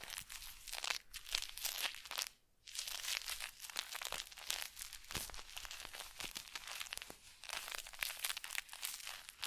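Close-miked ASMR crinkling and scratching: a dense run of crackly rustles and small clicks, with a brief pause about two and a half seconds in.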